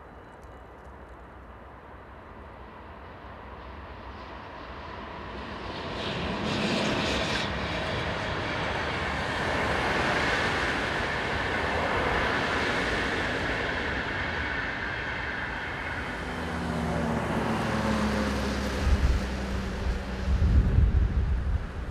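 Passenger train passing over a level crossing: a rush of wheels on rails builds from about four seconds in and holds steady for about ten seconds before easing off. Then road vehicles pull away and drive past, with a low engine drone and uneven rumbling near the end.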